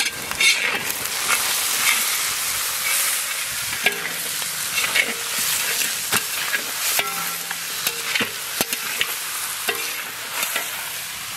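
Raw chicken pieces sizzling as they go into hot oil with onions and spices in a large metal kadai. A metal spatula scrapes and clinks against the pan now and then as the meat is stirred.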